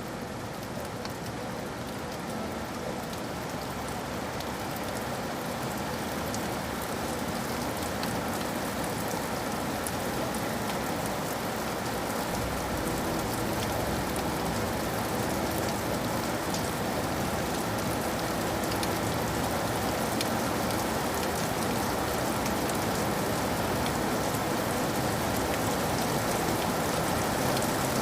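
Steady rain falling, a dense even hiss with many small drop ticks, slowly growing louder.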